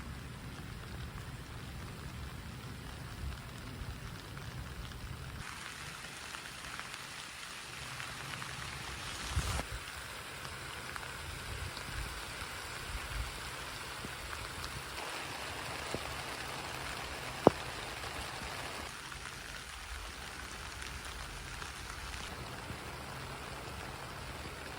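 Steady rain falling, with scattered louder drops ticking. About two-thirds of the way through, a single sharp tap stands out as the loudest sound.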